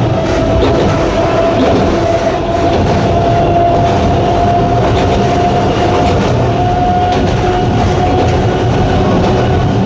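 Sangi Railway Hokusei Line narrow-gauge electric train running, its nose-suspended traction motors giving a steady whine that slowly rises in pitch as the train gains speed, over a continuous rumble of the wheels on the track.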